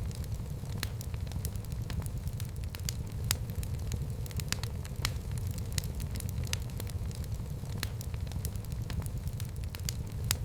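Wood fire burning in a fireplace: a steady low rumble of flames with irregular sharp crackles and pops, several each second.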